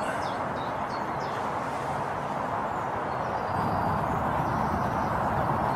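Steady outdoor wind noise with a few faint bird chirps in the first second or so.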